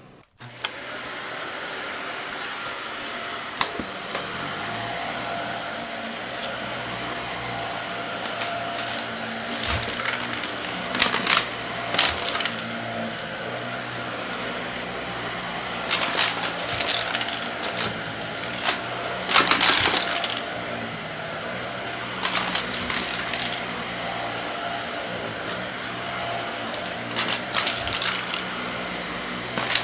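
Vacuum cleaner switched back on about half a second in, its motor running steadily, with short bursts of loud crackling and rattling as debris is sucked up.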